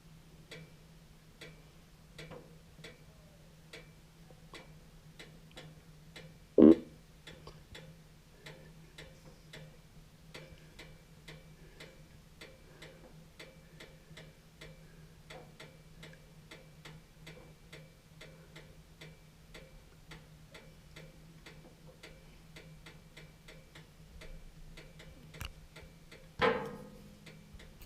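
Steady, even ticking at about two ticks a second over a low, steady hum. There are two sharp, louder knocks, one about a quarter of the way in and a second, weaker one near the end.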